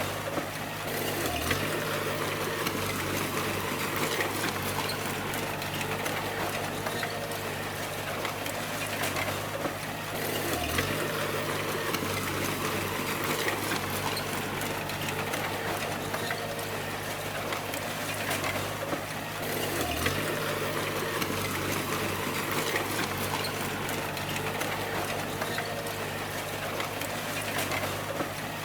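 Bulldozer's diesel engine running steadily under work, with metallic clanking throughout. About every nine seconds the engine note briefly dips and recovers, four times in all.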